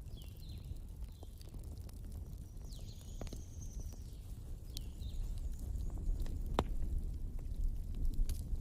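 Wood fire crackling, with irregular sharp pops over a steady low rush of flowing water. A few short high chirps that fall in pitch come through.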